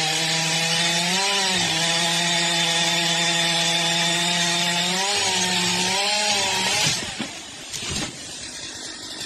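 A small motor running steadily at high speed over a noisy hiss. Its pitch dips briefly about a second in and twice more around five to six seconds in, as if under load, and it stops about seven seconds in, leaving a quieter rough noise.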